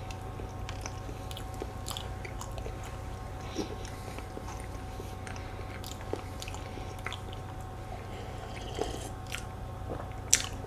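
Close-up chewing and biting of a soft rare-cheese cake with a cookie base, with scattered small clicks and a sharper click near the end.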